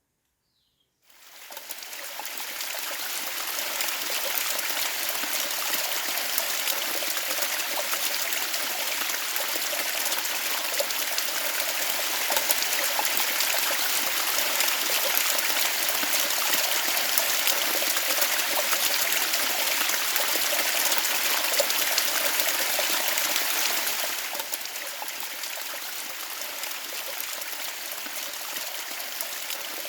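Steady rushing of running water, like a forest stream, fading in about a second in and turning a little quieter for the last few seconds.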